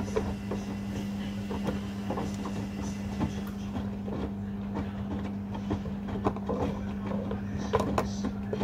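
Washing machines running a rapid wash cycle: a steady motor hum, with irregular knocks and clicks as the drum turns the load.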